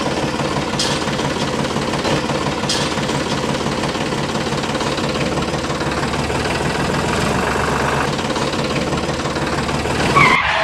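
A small engine running steadily, likely the mini tractor's engine.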